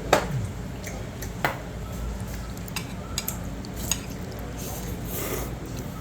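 Eating utensils clinking and scraping against a bowl in a series of sharp clicks, the loudest right at the start.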